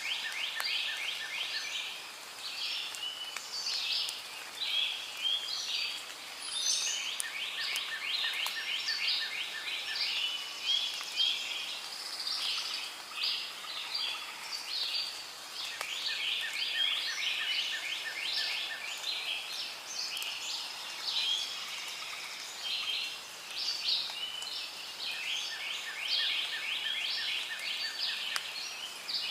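Rainforest ambience: dense, fast bird chirping and calling, with a quick run of even ticking calls that comes back about every nine seconds.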